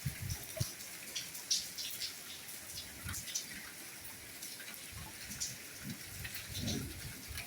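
Soft rain falling, with scattered drops tapping and a few heavier, duller drips landing now and then.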